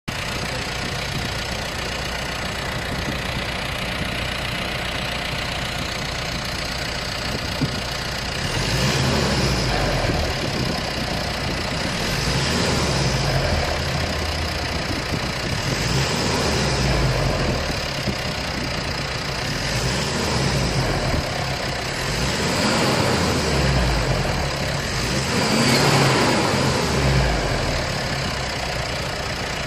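Mitsubishi L200 (Triton) 2.4 litre 4N15 MIVEC four-cylinder turbo diesel idling, then revved about six times, each rev climbing and falling back. The last and loudest rev comes near the end before it settles back to idle.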